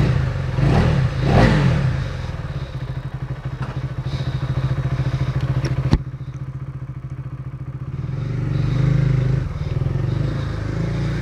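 KTM Duke 390's single-cylinder engine idling with a steady, rapid pulse. A single sharp click comes about six seconds in, and near the end the engine picks up and gets louder.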